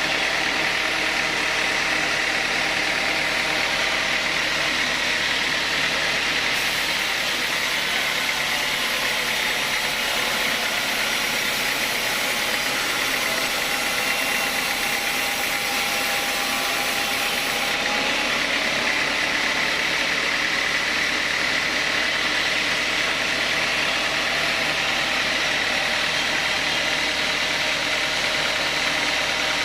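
Sawmill saw machinery running steadily with a constant mechanical noise and a steady high tone.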